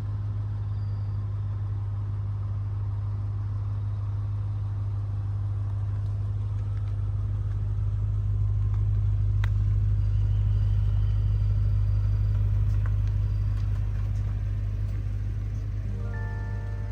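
Toyota Mark X V6 with a custom one-off muffler running with a steady deep exhaust rumble, growing louder about halfway through and then easing off. Music starts near the end.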